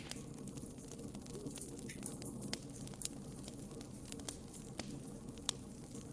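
Wood burning in a fireplace: a steady low rush of flame under frequent sharp crackles and pops, the loudest pops about three and five and a half seconds in.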